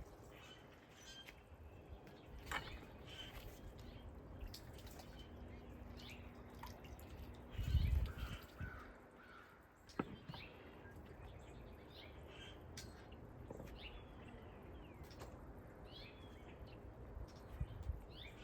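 Faint outdoor bird calls, short high chirps scattered throughout, over a low background of moving water, with a dull thump about eight seconds in and a sharp click at ten.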